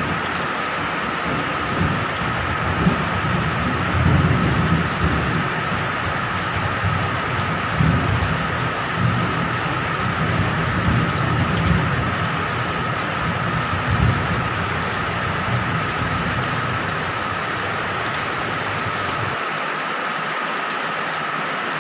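Steady rain falling, with rolling thunder rumbling low in repeated waves that die away near the end.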